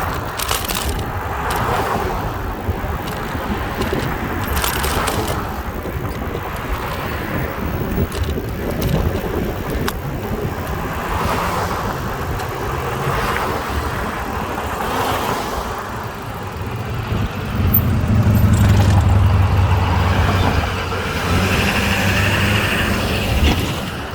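Wind rumbling on the microphone of a camera carried on a moving bicycle, rising and falling in gusts. For the last several seconds a motor vehicle's engine hums steadily close by.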